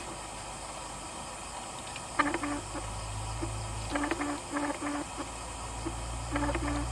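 Low, steady drone of distant palm-oil mill machinery. Over it, an animal gives groups of short, pitched calls three times.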